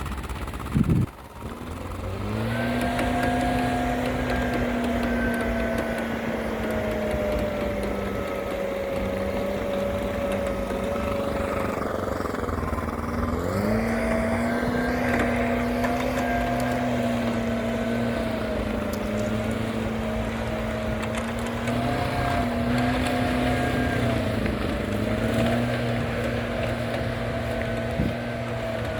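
All-terrain vehicle engine running under steady revs, its note dropping briefly about halfway through and then picking back up. A short loud knock comes about a second in, before the engine note rises.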